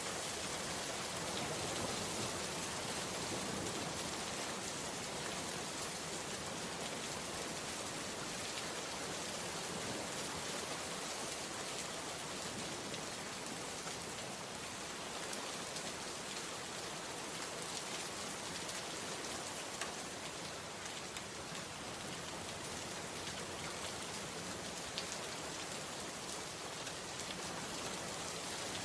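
Steady rain falling, an even hiss with scattered single drops standing out.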